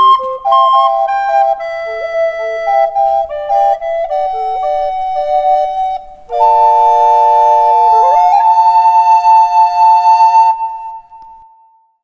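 Recorders playing the closing phrase of a melody, several notes sounding together, ending on a long held chord in which one note slides up about eight seconds in. The chord stops about ten and a half seconds in and dies away briefly.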